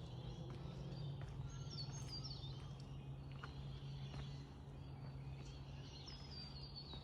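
Birdsong in bushland: two runs of high, quick notes stepping downward in pitch, one about a second and a half in and another near the end, over a steady low hum.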